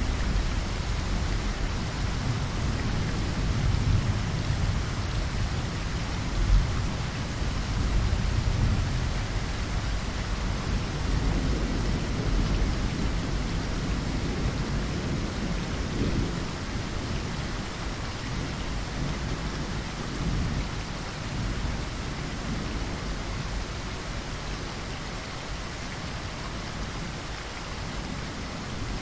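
Steady rain falling with rolling thunder. The low rumble swells through the first half, with a sharper crack about six and a half seconds in, and eases toward the end.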